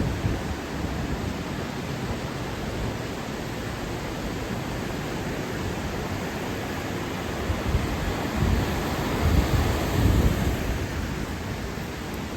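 Steady rushing roar of the flooded Wien river, with wind buffeting the microphone in low rumbling gusts from about eight to eleven seconds in.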